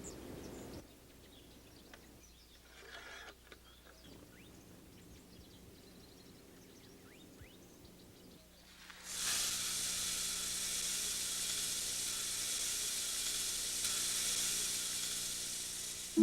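Quiet outdoor ambience with faint bird chirps, then about nine seconds in a steady hiss starts and holds.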